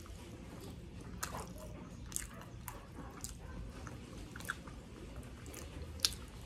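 Close-miked chewing of a mouthful of sisig and fried rice, with irregular wet mouth clicks and lip smacks, the sharpest one about six seconds in.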